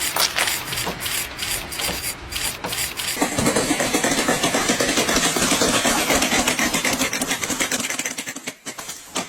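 A machine running with a dense, fast rattle of ticks, busier and louder from about three seconds in, dying away near the end.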